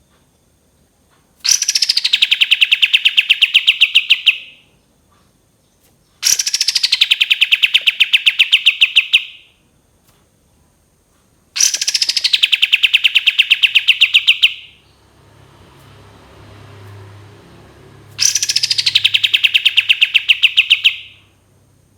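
Kapas tembak bird singing its long rapid-fire song: four bouts of about three seconds each, separated by short pauses. Each bout opens with a steeply falling note and runs on as a fast, even trill of about nine chirps a second.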